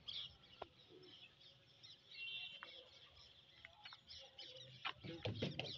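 Small birds chirping faintly, with a brief trill about two seconds in. A few sharp clicks and low knocks come near the end.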